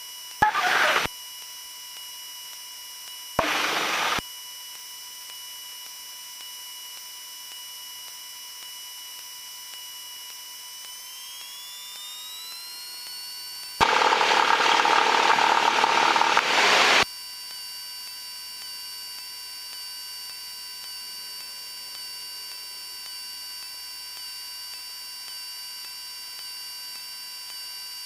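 Cessna 172M's four-cylinder Lycoming engine heard through the aircraft intercom as a steady set of thin tones. The tones rise together in pitch about 11 to 13 seconds in as power comes up for the takeoff, then hold steady. Three loud bursts of hiss break in near the start, about 3 seconds later and in the middle, the last lasting about 3 seconds.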